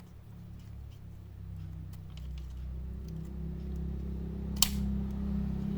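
Small clicks and taps of laptop parts being handled and opened by hand, with one sharp plastic click about four and a half seconds in. A low steady hum grows underneath from about two seconds in.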